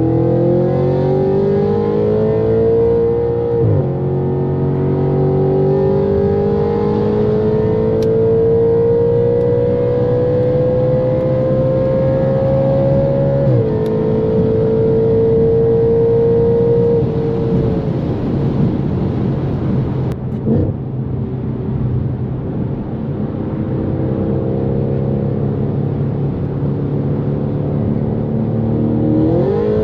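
Straight-piped Audi RS5's 4.2-litre naturally aspirated V8 under hard acceleration. It pulls up through the revs, drops in pitch at an upshift after about four seconds, climbs slowly through a long pull and shifts again, then holds a steady pitch. It fades into wind and road noise as the throttle lifts, and rises sharply again near the end as it gets back on the power.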